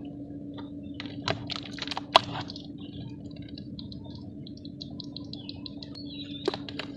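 Lumps of dry red dirt cracking and crumbling: a few sharp cracks in the first two seconds and one more near the end, with faint light crumbling ticks between, over a steady low hum.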